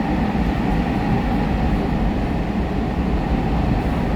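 Metro train running steadily at medium speed, heard from inside the carriage: a continuous low rumble of wheels on the track and running gear.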